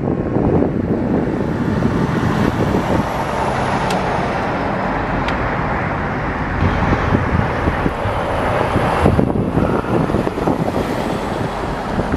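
Dump truck driving past, with steady engine and tyre noise.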